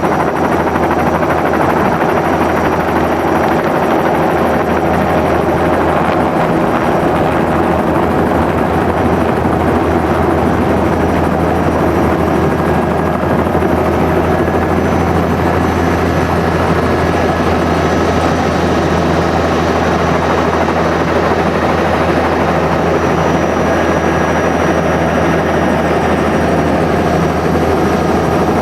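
Helicopter engine and rotor running steadily, a loud even drone with a strong low hum.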